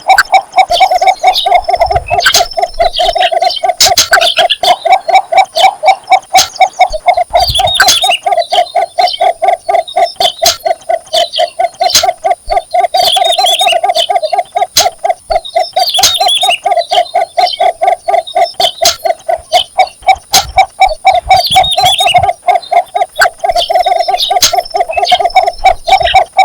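Cinnamon bittern calling for a mate: a long, unbroken run of quick, evenly repeated low notes, several a second.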